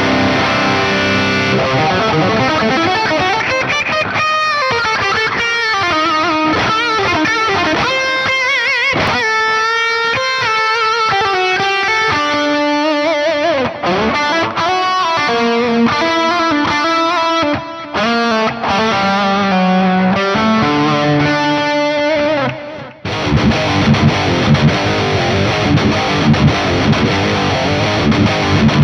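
Electric guitar played through a Boss Katana 100 MkII amp with a distorted tone, running through lines of single notes with pitch bends. Just before the three-quarter mark it breaks off briefly and comes back as a denser, heavier distorted rhythm part.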